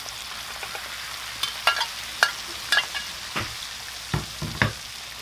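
Shredded hash browns frying in hot grease in a steel plow-disc cooker: a steady sizzle, with scattered sharp pops and clicks and a few heavier knocks in the second half.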